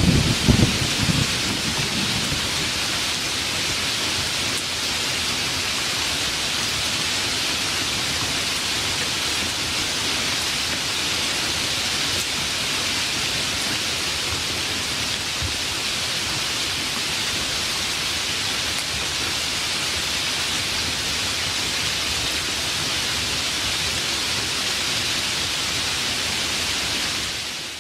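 Steady rain falling hard, an even hiss, with the tail of a low thunder rumble in the first second. The rain begins to fade out right at the end.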